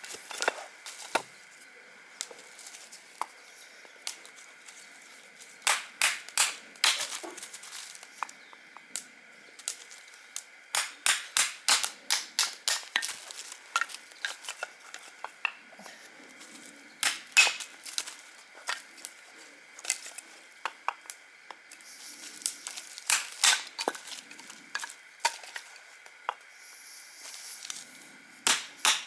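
Dry wood snapping and crackling in quick clusters of sharp cracks every few seconds, over a faint steady high hiss.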